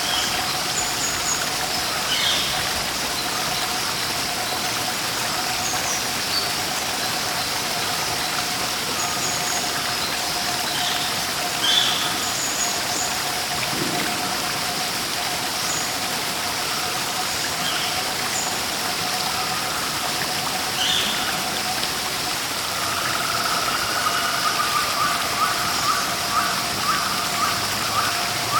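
Steady rush of running water, with short bird chirps scattered over it. Near the end a bird repeats a fast series of notes, about three or four a second.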